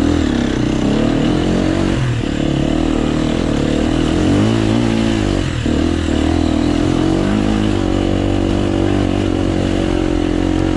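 Enduro motorcycle engine running under load on a rough dirt trail, its pitch rising and falling as the throttle is opened and eased, with a brief drop about five and a half seconds in.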